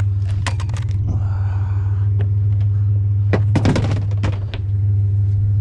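Idling vehicle engine humming steadily, with knocks and clatter of scrap being handled, loudest in a cluster of knocks about three and a half seconds in.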